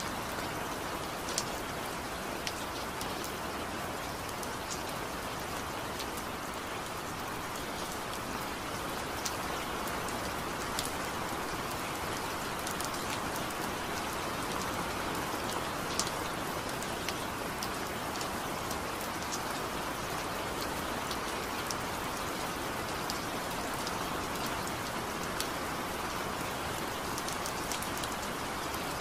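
Steady rain falling, with single louder drops ticking now and then at irregular moments.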